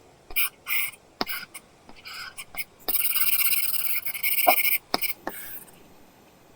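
Apple Pencil tip drawing on a paper-texture screen film on an iPad: a few short scratchy strokes, then a longer continuous scribble from about three seconds in to about five seconds, with a few sharp taps of the tip.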